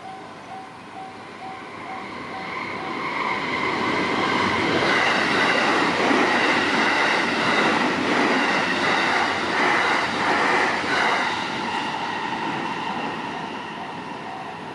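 A train passes over a level crossing: its wheels rumble and clatter, building to a peak and then fading away. Throughout, the crossing's warning bell rings in a steady repeating chime, drowned out while the train is loudest.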